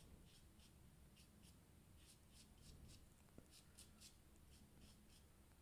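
Near silence, with faint soft strokes of a small synthetic paintbrush dabbing and flicking wet acrylic paint across smooth paper, a few strokes a second.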